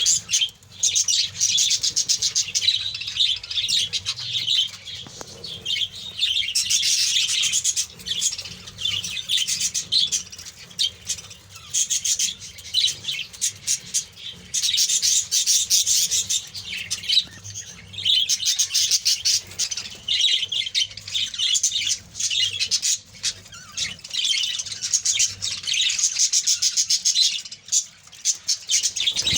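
A flock of budgerigars chattering continuously with rapid, high warbling chirps and squawks, swelling louder in busy stretches every few seconds.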